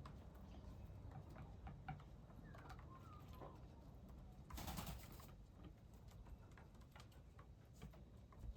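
Faint bird sounds: short chirps and scattered small clicks and taps. A brief rush of noise comes just under halfway through.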